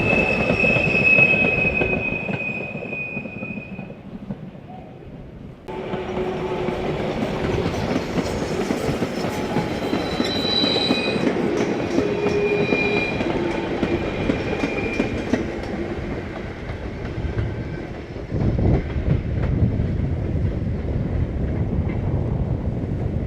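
Steam-hauled train running past, its coach wheels clattering over the rail joints with a high wheel squeal. The sound fades, then breaks in sharply louder a fifth of the way in, with more squealing in the middle and a heavier low rumble near the end.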